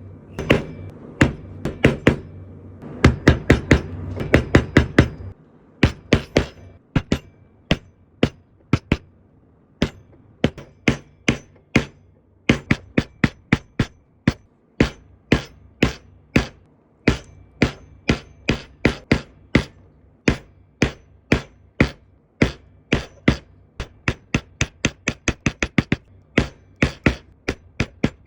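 Mallet strikes on a steel leather stamp, pressing impressions into vegetable-tanned leather: sharp, crisp taps about two to three a second, sometimes in quick runs of several. A low steady background sound lies under the strikes for the first five seconds or so, then stops.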